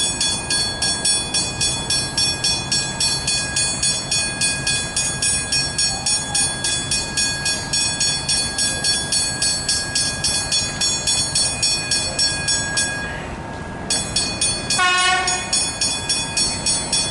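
Railway level-crossing bells ringing steadily at about three strikes a second. They stop for about a second late on, then resume, and a short train horn blast falling in pitch sounds just after.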